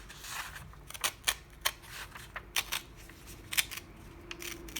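Handling noise: about six sharp, irregular clicks and light taps of things being moved and set down.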